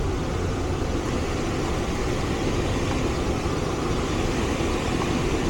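HVAC indoor unit's blower running on a call for cooling: a steady, even whoosh with a low hum underneath.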